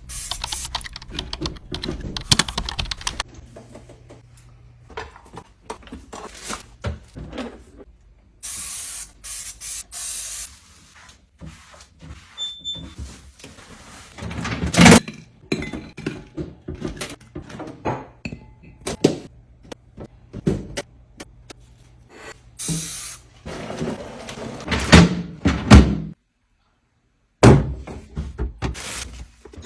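Clatter of containers and fridge parts being handled: knocks, clicks and thunks, the loudest about halfway through and again near the end, with a few short hissing spray bursts about a third of the way in and once more later, as a refrigerator is emptied and cleaned.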